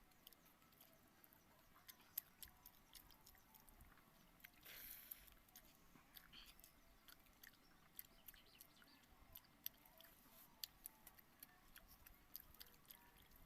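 Faint eating sounds: scattered soft wet mouth clicks and smacks from chewing watered rice and potato curry, with a short louder noisy patch about five seconds in.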